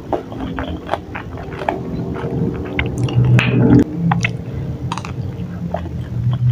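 Close-up, wet chewing and mouth smacks of a person eating chewy tapioca balls (bakso aci) in spicy broth, with many short sticky clicks, under a low hum that swells about halfway through and again near the end.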